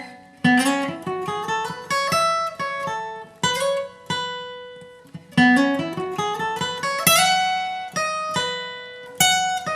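Acoustic guitar flatpicking a slow single-note lead lick: a run of notes climbing in pitch, played twice. Each run ends on notes left to ring, with a few fuller strummed attacks near the end.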